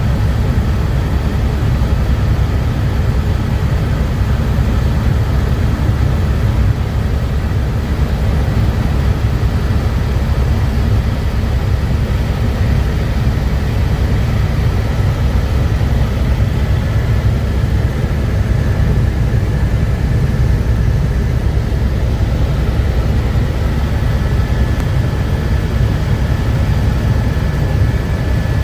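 Helicopter in steady flight: a loud, constant low drone of rotor and engine, with a faint steady high whine over it.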